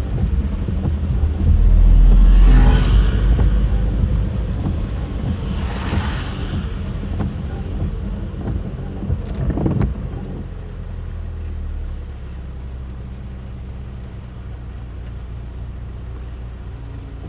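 Car driving in a typhoon rainstorm: steady low road and engine rumble, with two swelling whooshes early on. The noise drops to a quieter steady hum after about ten seconds.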